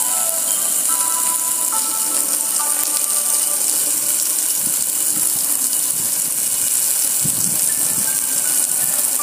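Car wash water spray: a steady, loud hiss of water jets.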